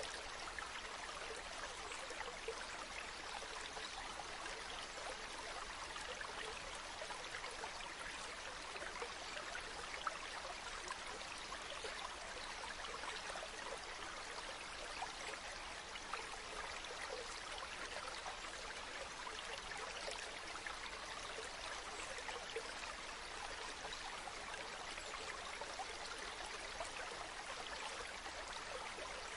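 A stream running steadily, with fine splashing throughout.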